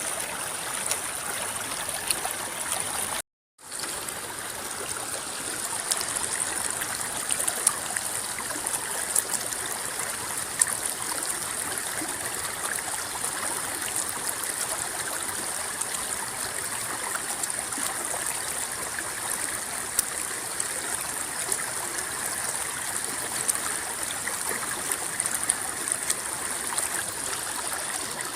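River water rippling and babbling steadily. The sound cuts out completely for a split second about three seconds in.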